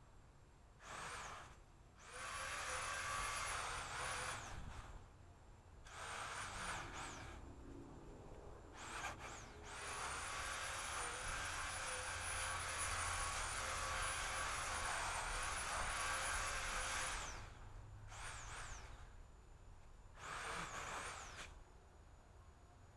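Chainsaw cutting branches, its motor spun up in a string of short bursts and one long run of about seven seconds, the pitch rising at each start and falling off at each release, with near-quiet pauses between and no idle.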